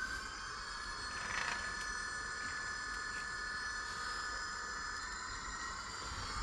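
Model train locomotive running on the layout, giving a steady high whine made of several held tones.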